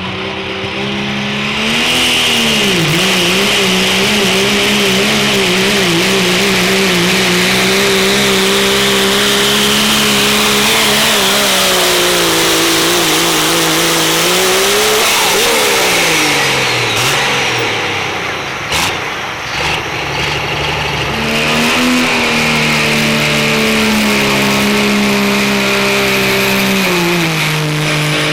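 Diesel truck engine held at high revs under heavy load in a truck pull. About halfway through, the revs fall away, and a few seconds later an engine revs up and holds high again.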